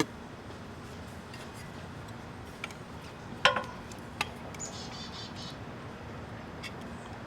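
A small bird chirps in a quick run of high notes about halfway through, over a few sharp clicks and knocks from the work; the loudest click comes about three and a half seconds in.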